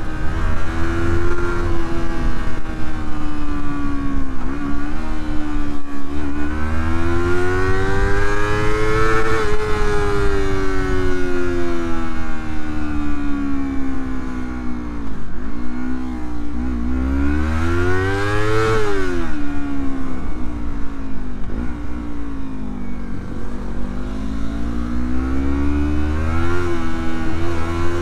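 Motorcycle engine under way, its pitch climbing and falling in long sweeps as the rider speeds up and eases off, with short dips at gear changes, over a low wind rumble on the microphone.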